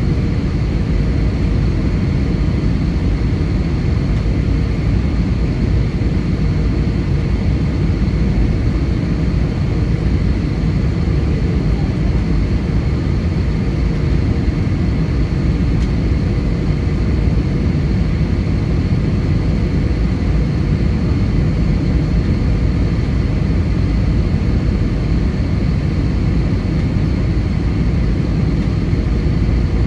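Steady engine and airflow noise inside the cabin of an Airbus A320 airliner: a constant low rumble with a faint steady whine over it.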